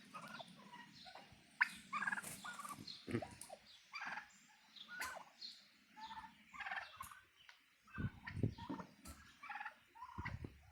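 Domestic turkeys, including large young ones, calling in a scattered chorus of short clucks and yelps, with a few low thumps in the last few seconds.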